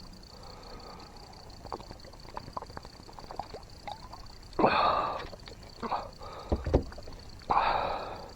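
Gear being handled aboard a fishing boat: scattered light clicks and knocks, then two short rushing bursts of noise about three seconds apart, with a couple of low thumps between them.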